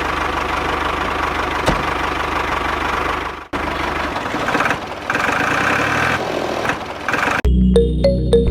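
An engine running at idle with a steady low note and rough clatter. It cuts out briefly about three and a half seconds in, then carries on with a lighter, higher-pitched running. Electronic music begins near the end.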